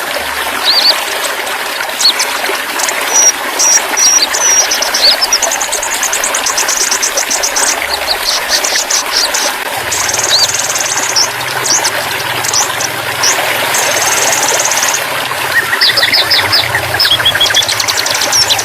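Songbirds singing rapid chirps and fast trills over steadily trickling, running water.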